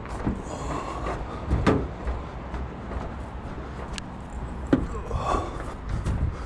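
A man carrying a washing machine on his shoulder: footsteps and a few sharp knocks from the load, over a low rumble.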